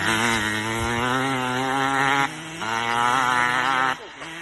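Dirt bike engine held at high revs in two stretches, with a brief dip about two seconds in, then dropping back to a low idle near the end.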